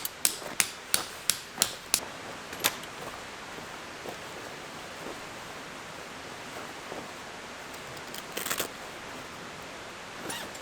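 Hammer striking a tent peg: a quick run of sharp strikes, about three a second, stopping about two seconds in with one last strike shortly after. Then steady outdoor hiss with a brief rustle near the end.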